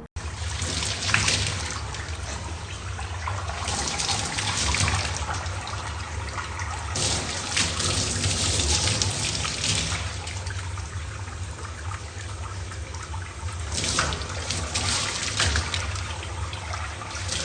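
Running or splashing water: a steady noisy rush with several louder surges.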